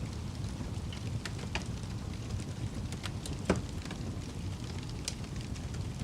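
Fire burning with a steady low rumble and scattered sharp crackles and pops, one louder pop about halfway through.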